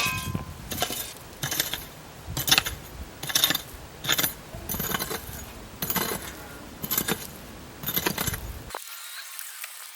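Hard clinking knocks of stone being worked, roughly one a second, each with a short bright ring. Near the end they stop abruptly and give way to a thinner, quieter background.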